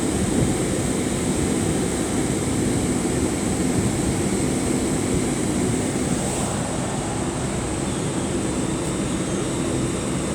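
Steady hum of trains standing at a station platform, their engines and equipment running, with a constant pitched drone.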